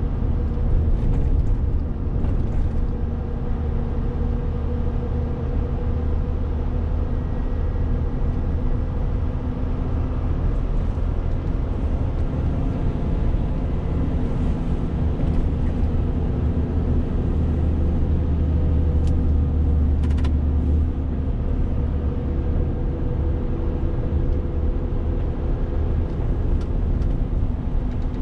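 Renault T520 truck's 13-litre six-cylinder diesel running at a steady pitch while driving, a constant engine drone over low road rumble.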